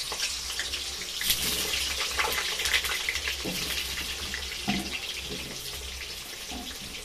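Potato chunks sizzling and crackling in hot oil in an aluminium kadai, with a few soft knocks as more pieces drop into the pan. The sizzle eases slightly toward the end.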